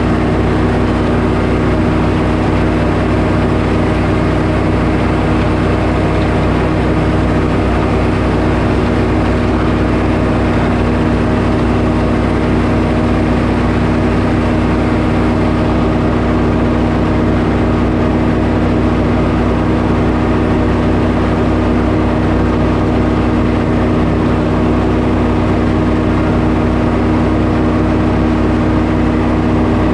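Sawmill engine running steadily at an even pitch while milling a pine log, with no change in speed or load.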